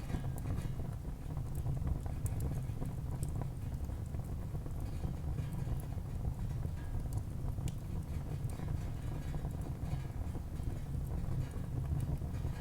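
Wood fire burning in a fireplace: a steady low rumble of flame with scattered, irregular sharp crackles and pops from the burning logs.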